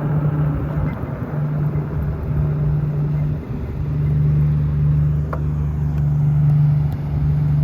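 Wind buffeting the microphone during a bicycle ride, a steady low rumble that swells and eases.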